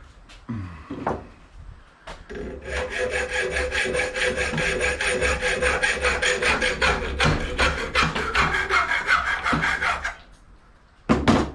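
A saw cutting through a small piece of copper on a brass scrap fitting, in rapid, even back-and-forth strokes with a metallic ring. It starts about two seconds in and stops near ten seconds. A short loud knock follows near the end.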